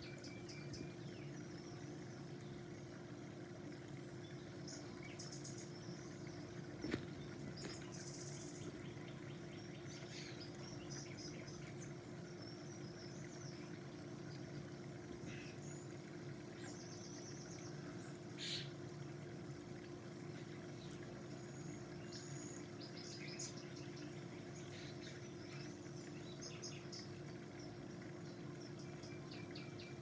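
Faint chirps and short calls from several birds, scattered throughout over a steady low hum. There is a single click about seven seconds in, and a louder high call near the middle.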